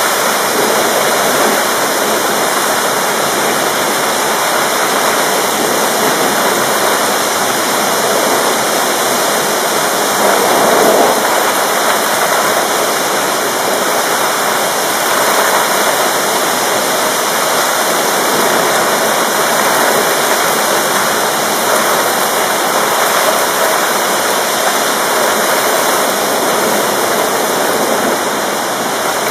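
Heavy rain of a thunderstorm pouring down steadily, a dense even hiss, briefly a little louder about ten seconds in.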